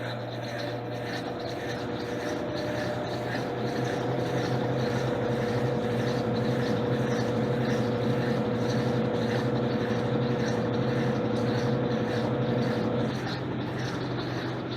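Electrolux LTC10 washing machine running partway through its jeans cycle: a steady motor hum with a higher whine that stops about 13 seconds in.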